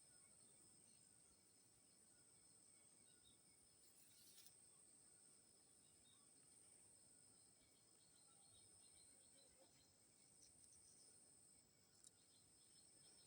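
Near silence: faint outdoor ambience with a steady high-pitched insect drone and a few faint short chirps, plus a single soft click near the end.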